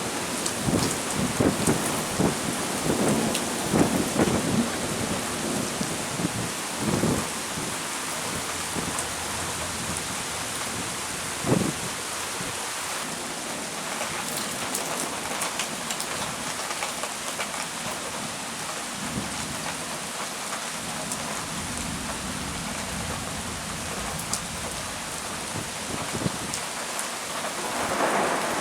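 Thunderstorm: heavy rain falling steadily, with thunder rumbling through the first several seconds, briefly again about eleven seconds in, and once more near the end.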